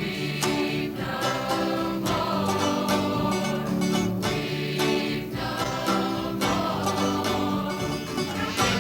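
Gospel music: a vocal group singing in harmony over instrumental accompaniment with a steady beat.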